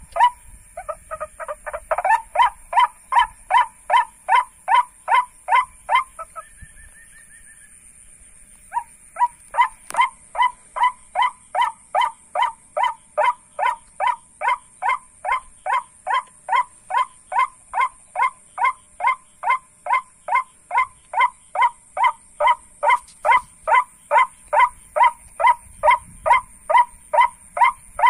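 Rapid, evenly repeated 'kwak' notes of the white-breasted waterhen's (ruak-ruak) call, about two to three a second. The notes stop for a couple of seconds about six seconds in, when a brief higher note sounds, then carry on steadily. A steady high-pitched drone runs underneath.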